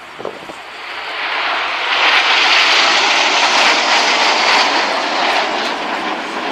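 Jet aircraft flying past: a loud, rushing engine noise that builds over the first couple of seconds, peaks, then slowly fades.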